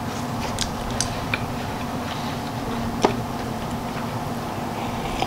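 Chewing a crisp birria taco: scattered crunches and mouth clicks, the sharpest about three seconds in, over a steady background hiss.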